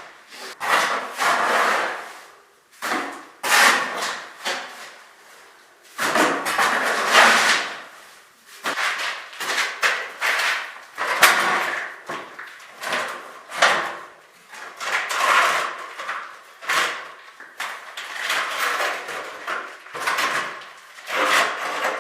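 A hand tool working wood or masonry with repeated scraping strokes, uneven at first, then settling into a fairly regular rhythm a little faster than one stroke a second.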